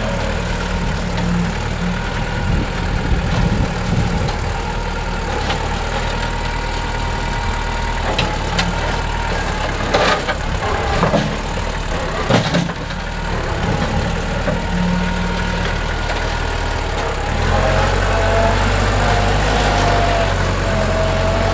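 NorTrac 35XT tractor engine running steadily, with a couple of sharp clanks near the middle. The engine gets louder about three-quarters of the way through, with a wavering whine over it.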